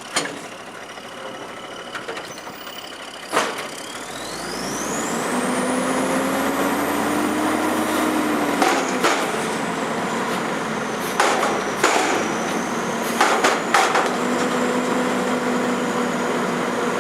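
Garbage truck at work: its engine and hydraulics speed up about four seconds in with a rising whine, then run steadily, with several sharp metal bangs along the way.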